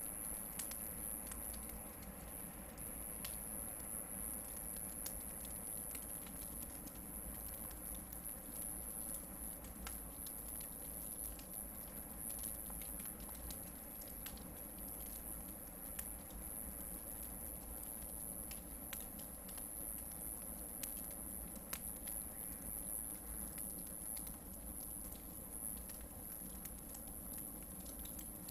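Hardwood campfire burning, with scattered small crackles and pops over a soft steady rustle of flame, and a faint steady high-pitched whine underneath.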